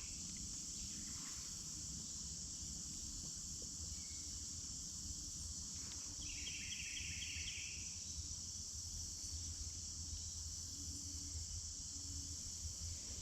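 Steady insect chorus of late-summer crickets, a continuous high shrill buzz, with a short pulsed call about six seconds in.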